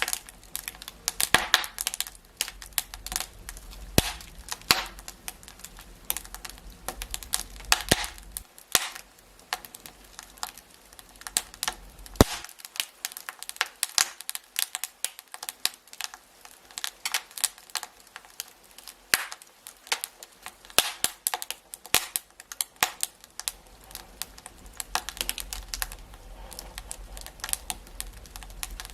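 Wood fire crackling in a fireplace: a steady scatter of irregular sharp snaps and pops, a few much louder than the rest, over a faint low rumble that drops away for a while in the middle.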